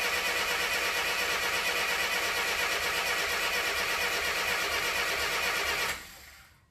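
1962 Mercedes-Benz 180c Ponton's four-cylinder petrol engine being cranked by its starter motor with an even pulsing rhythm, not firing, until the cranking stops about six seconds in. This is a crank-no-start, which the owner traces to fuel not reaching the carburettor.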